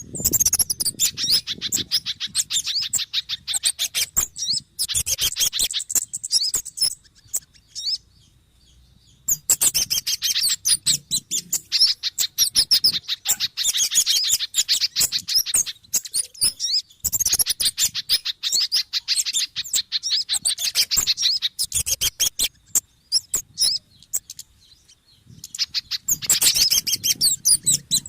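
Bird-lure recording of small birds calling in agitation: dense runs of rapid, high chirps in bouts several seconds long with short pauses between, a mix of kemade, sogon and spiderhunter (pijantung) calls.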